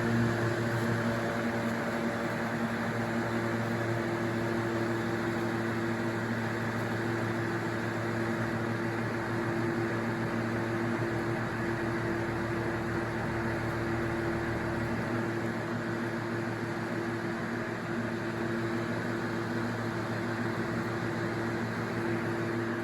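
1997 Duracraft DT-50 table fan running steadily: a rush of air from the blade over a constant motor hum.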